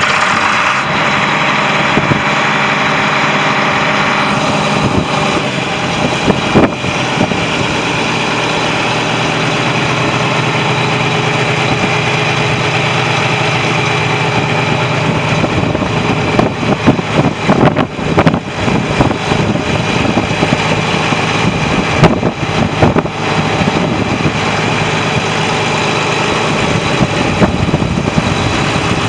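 John Deere 8640 four-wheel-drive tractor's six-cylinder diesel engine idling steadily, heard up close. Scattered crackles and knocks come through in the second half.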